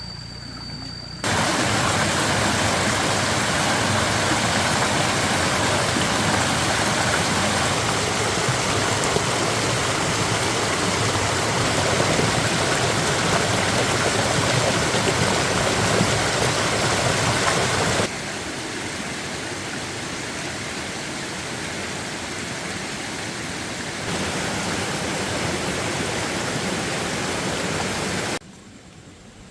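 Steady rushing of water, loud and even. It starts abruptly about a second in, drops in level suddenly past the middle, rises again, and cuts off shortly before the end, as if three separate takes were cut together.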